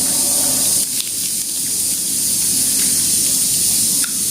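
Steady sizzling hiss of oil in a hot pan where egg puff pastries are cooking, with a few faint ticks.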